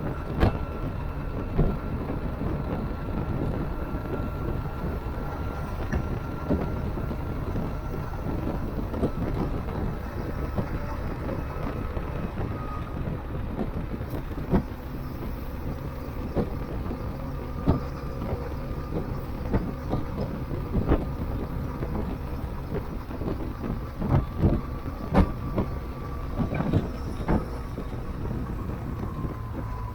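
Motorcycle running along the road: a steady engine rumble with road and wind noise, broken by occasional sharp knocks, several of them close together near the end.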